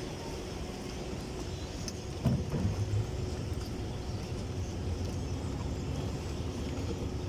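Engine running steadily with a low rumble and a held hum, with a brief louder low sound a little over two seconds in.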